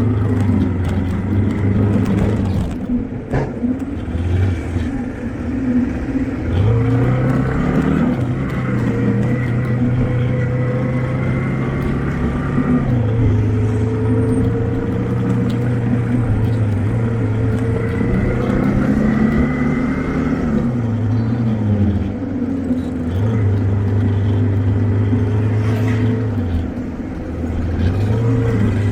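A motor vehicle's engine running steadily. Its pitch drops and climbs again several times as the engine speed changes.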